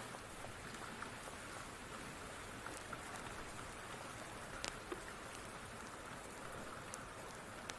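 Steady rain with a few sharp crackles and pops from a wood fire, the clearest about halfway through and near the end.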